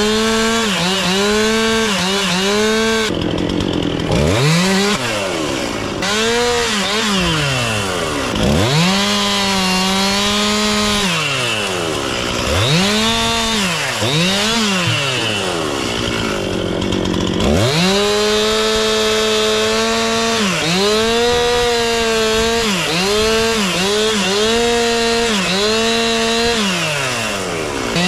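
Chainsaw revving and cutting wood, the throttle squeezed to a high steady whine and let off again many times over, with two longer drops toward idle.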